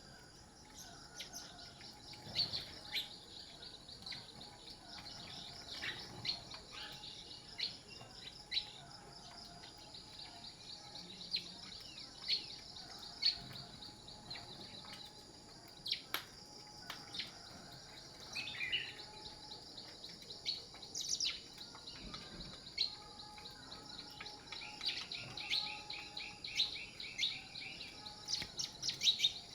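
Songbirds chirping and calling: many short, sharp calls scattered throughout, over a steady high-pitched hum. Near the end a fast repeated trill comes in.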